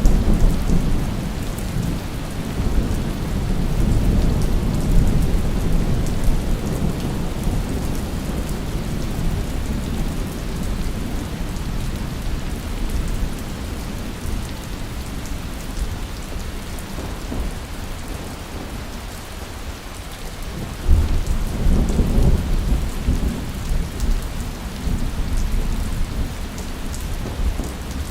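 Steady heavy rain with rolling thunder: a long low rumble at the start that dies away, and a fresh clap of thunder about three quarters of the way through, rumbling on.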